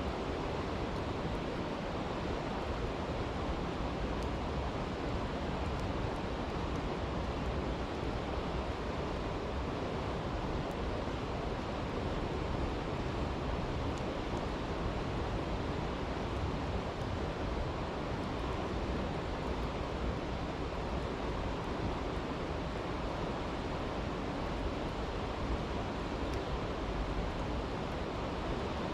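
Steady rushing of a stream, with a few faint crackles from a campfire.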